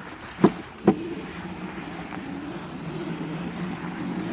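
Electric mini dirt bike motor running with a steady hum. Two sharp knocks stand out about half a second and one second in.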